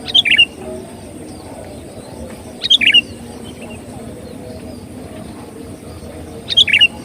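Sooty-headed bulbul (kutilang) singing: three short phrases of a few quick notes each, roughly three seconds apart.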